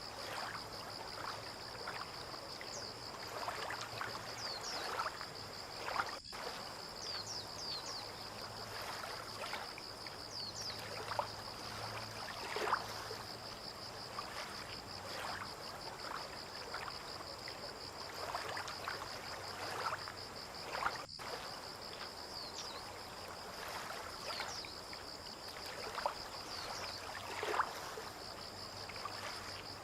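Water lapping and trickling at a harbour's edge in small irregular splashes, over a steady high-pitched trill with a few short chirps.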